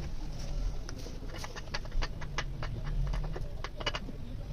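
A run of short, sharp clicks and taps, several in quick clusters, over a steady low hum.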